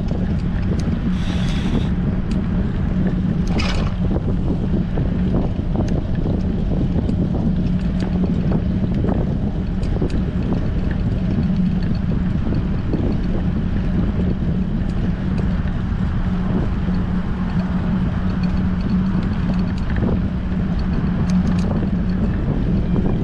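Strong wind buffeting the microphone of a camera riding on a moving bicycle, a steady rumble with a constant low hum underneath and two brief hisses near the start.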